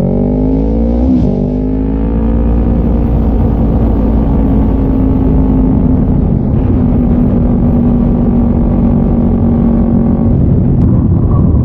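Motorcycle engine accelerating with two quick upshifts, the pitch dropping and climbing back each time, then holding a steady cruising speed for several seconds.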